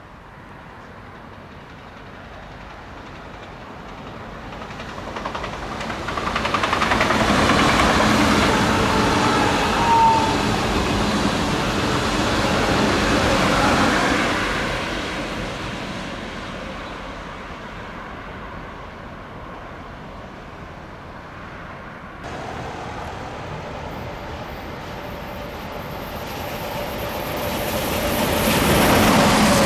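A DB ICE high-speed train passing at speed: a rushing rail noise that swells over a few seconds, holds, then fades away. Then a DB Class 101 electric locomotive hauling an Intercity train approaches, growing loud near the end.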